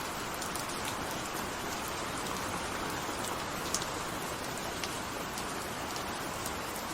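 Steady rain falling: an even hiss with scattered sharp drop ticks, one louder tick about halfway through.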